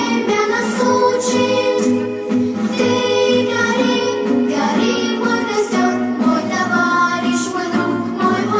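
A song: a singing voice carrying a melody over instrumental accompaniment.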